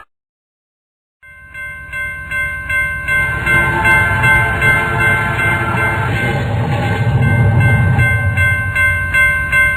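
Train sound effect of a railroad-crossing cartoon: about a second in, a train's low rumble starts and builds under steady, held horn-like high tones.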